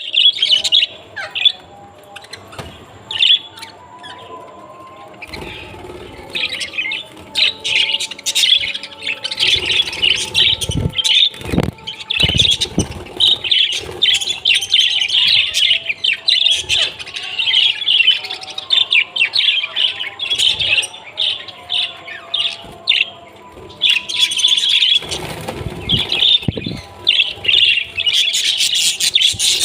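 Many caged parrots chirping and chattering together in a dense, continuous din of short, high calls. A few low thumps come around the middle and again near the end.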